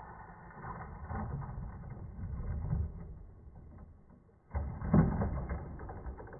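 Traxxas Sledge Hammer RC monster truck running, heard mostly as low rushing noise that swells and falls in surges, with a sudden loud burst about four and a half seconds in that then fades.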